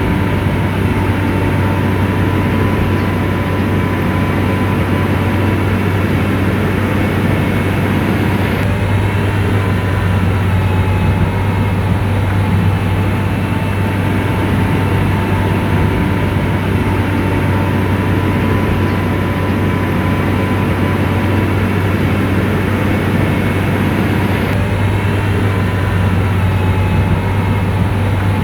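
Komatsu bulldozer's diesel engine running steadily, a deep drone with a thin whine above it.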